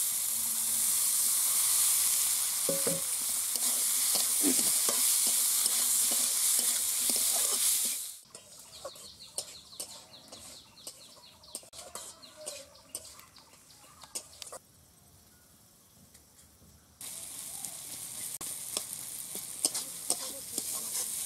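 Prawns, diced potato and tomato sizzling in a hot aluminium karahi while a steel spatula stirs them, clicking and scraping against the pan. About eight seconds in the sizzle drops away, leaving only scattered spatula clicks. The sizzle and stirring return about four seconds before the end.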